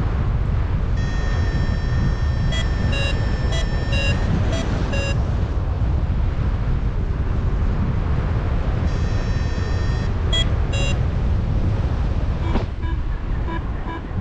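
Loud airflow rushing over the microphone in flight under a paraglider, with a flight variometer beeping through it: a held tone running into a quick series of short beeps, twice, and fainter beeps near the end.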